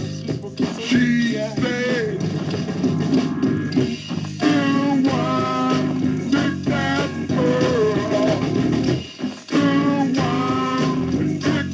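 Rock music playing: guitar and bass with a singing voice coming and going over the band.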